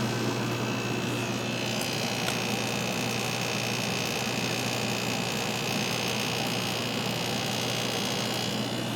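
Window air conditioner running with its compressor freshly started: a steady hum with a high whine. About a second and a half in, higher whining tones join and fade again near the end. The compressor runs loud at first and quiets down after it has been running a while.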